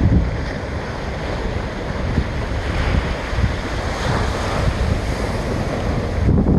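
Ocean waves crashing and washing against a jetty, with strong wind buffeting the microphone. A wave's wash swells up about halfway through, and low wind rumble gusts at the start and again at the end.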